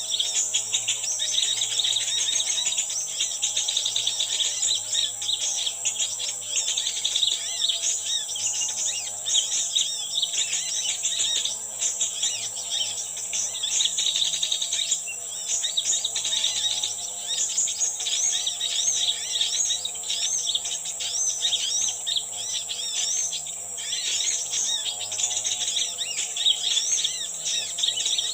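Many birds chirping and calling rapidly over a steady trilling of insects, with wavering repeated calls lower down and a faint steady low hum.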